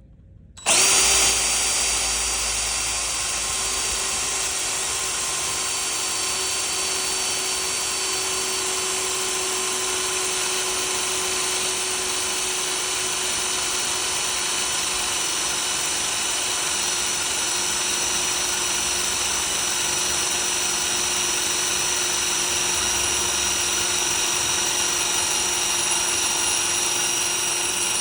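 Power drill starts about a second in and runs steadily under load as a 3/16-inch Milwaukee twist bit bores into a metal plate. The sound is an even motor whine over a high cutting hiss.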